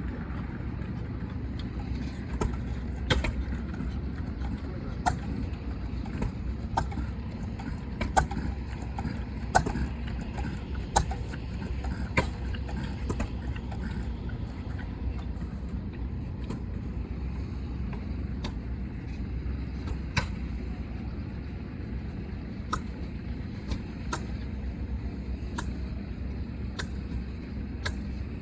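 Engine running with a steady low rumble, with sharp clicks and knocks scattered through it and a few louder knocks in the first half.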